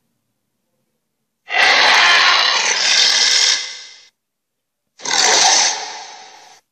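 Two harsh, noisy creature sound effects, each cut off by dead silence: a longer one about a second and a half in that fades away, then a shorter one that also fades.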